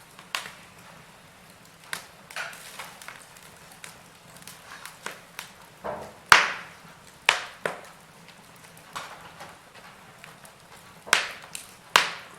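Wood fire crackling, with irregular sharp pops over a faint hiss. The loudest pop comes about six seconds in, with two more strong ones near the end.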